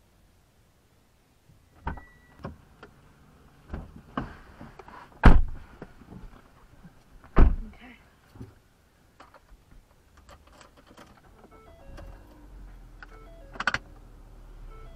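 Knocks and thumps in and around a car, the two loudest about five and seven seconds in, then a low steady hum from about twelve seconds in.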